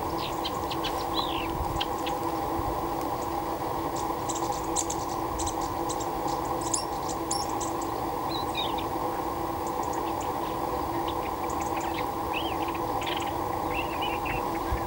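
Small birds giving scattered short, high chirps and calls, some dropping in pitch, over a steady hum made of several fixed tones.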